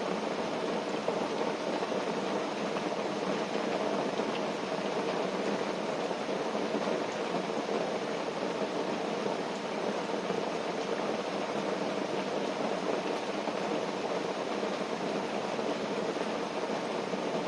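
Steady rushing of water, an even hiss with no separate drops, knocks or crackles.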